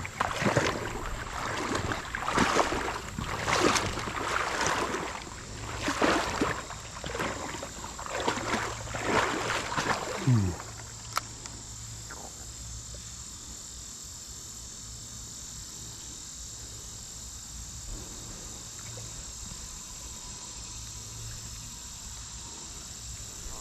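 Water sloshing and splashing in irregular bursts, typical of someone wading through a shallow creek, for about the first ten seconds. After that only a faint, steady background hiss remains, with a thin high steady tone.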